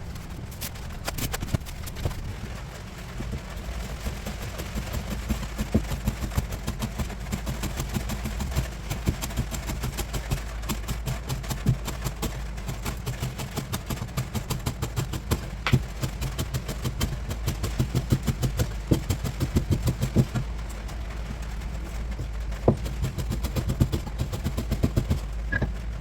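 A motor running steadily with a low hum, with many irregular sharp clicks and knocks over it, most frequent in the second half.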